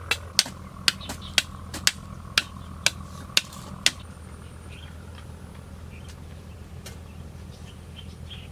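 Sharp knocks of blows struck on a bamboo pole, about two a second, stopping about four seconds in, over a steady low hum.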